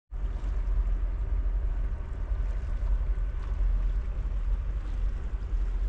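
Steady rushing of river water, heavy with low rumble.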